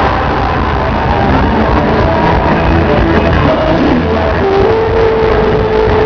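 Live band music with singing, loud and dense. About three-quarters of the way through, the voice holds one long note.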